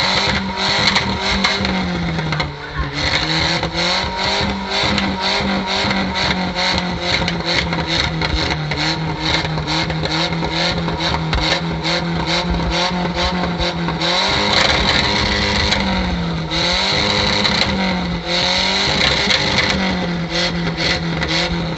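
Nissan car's engine revved and held at high revs, its note swinging up and down between two steady levels, with a rapid run of sharp cracks from the exhaust.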